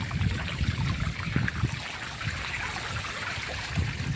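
Floodwater running and trickling after heavy rain, a steady rushing hiss with irregular low thuds underneath.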